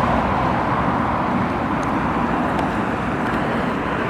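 Steady rush of road traffic noise, an even wash with no distinct events.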